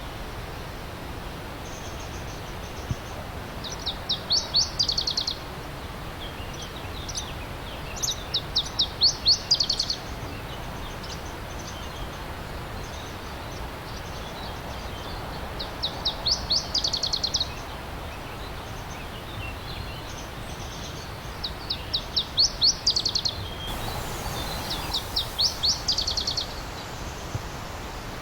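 A songbird sings five short bouts a few seconds apart, each a quick run of sharp, high repeated notes. Underneath is a steady rush of stream water.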